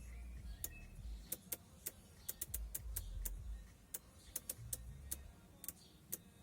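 A run of sharp, irregularly spaced clicks, about two or three a second, over a faint low rumble.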